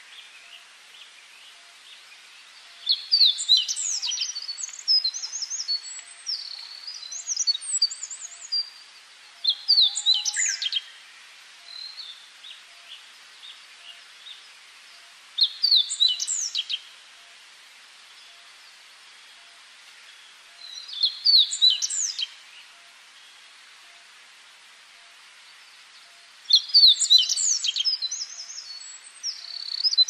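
A songbird singing in the woods: five short phrases of quick, high whistled notes sweeping up and down, each about one to two seconds long and coming every five to six seconds, over a steady faint hiss.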